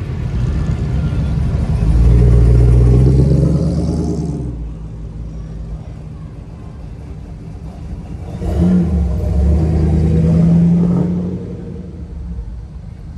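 Classic American cars driving past one after another, engines rumbling. The loudest passes come about two seconds in and again about eight and a half seconds in, each swelling and fading over two to three seconds.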